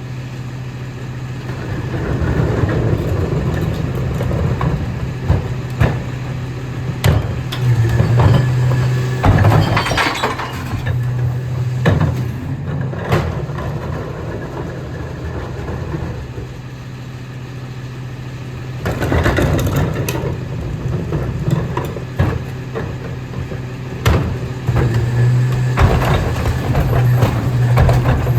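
Autocar ACX rear-loader garbage truck idling steadily, with repeated clattering, sharp knocks and clinking glass as recyclables are tipped into the Pac-Tech hopper and packed. There are louder noisy stretches about two, nine and nineteen seconds in.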